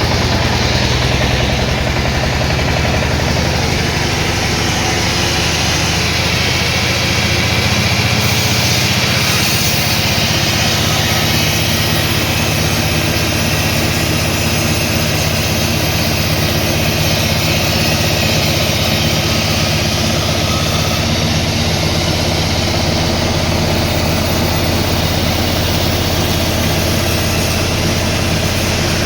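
A heavy engine running steadily at a constant speed, with a deep, even hum that does not change throughout; most likely the sawmill's power unit.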